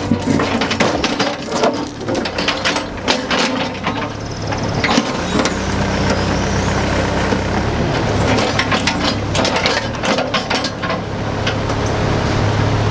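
Diesel engine of a compact construction machine running steadily, with repeated metallic clanks and knocks over it.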